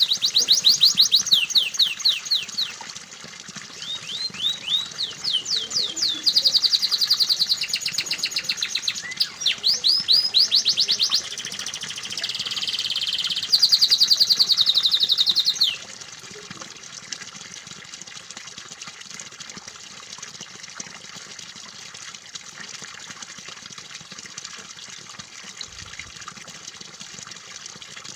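Domestic canary song: fast trills, rolls and repeated sweeping notes for about 15 seconds, then it cuts off abruptly. After that comes a steady, fainter sound of running water.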